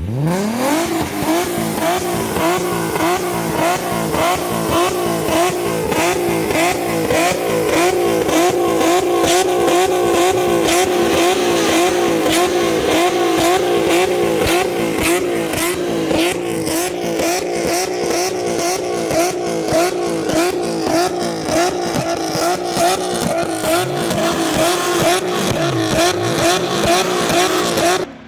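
Car engine revved hard and held high, its pitch bobbing rapidly up and down as it bounces near the limiter, over the hiss of spinning tyres in a long burnout. The revs climb quickly at the start, and the sound cuts off abruptly near the end.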